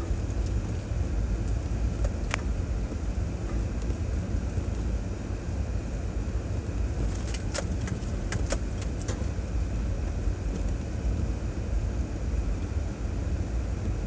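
A 2006 Chevrolet Trailblazer driving along a dirt trail, giving a steady low rumble from engine and tyres. Short sharp rattles and clicks come about two seconds in and in a cluster between about seven and nine seconds in.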